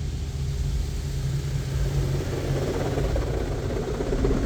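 Touch-free car wash spot-free rinse, heard from inside the car: water spraying onto the body over a low steady hum, growing louder about halfway through.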